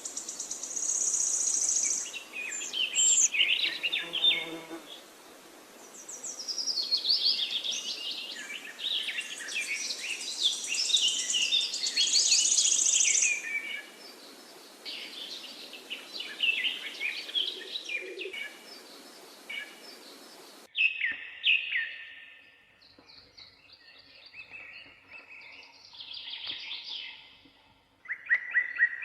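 Several songbirds chirping and trilling, many quick high calls overlapping, over a steady background hiss. About two-thirds of the way through the hiss cuts off suddenly and the chirps become sparser.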